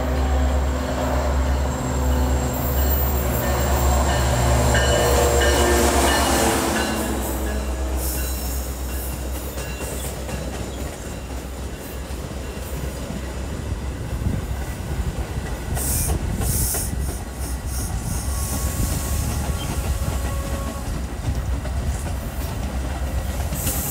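A Metra commuter train passing close: for the first seven seconds or so the diesel locomotive's engine is heard, its pitch dropping as it goes by. Then the stainless bilevel gallery cars roll past, their wheels rumbling and clicking over the rail joints.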